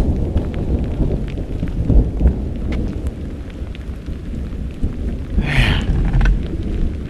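Heavy mountain rain falling, with scattered drop ticks and a deep rumble throughout, plus a brief hiss about five and a half seconds in.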